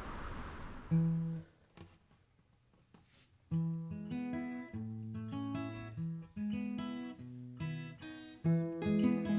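Acoustic guitar music: a single strummed chord about a second in, then from about halfway a steady run of strummed chords and plucked notes.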